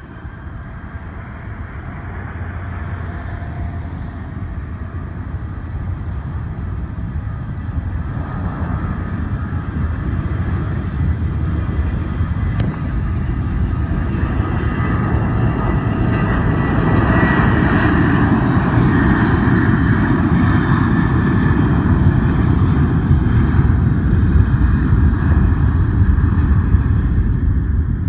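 Jet airliner's engines at takeoff power, a steady rumbling roar that grows louder throughout as the plane rolls down the runway toward the listener, with a thin whine rising above it about two-thirds of the way through.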